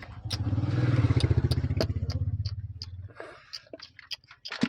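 A vehicle engine runs with a low, rapid pulsing. It swells to its loudest about a second in and dies away about three seconds in, like a vehicle passing. Sharp clicks and ticks sound throughout.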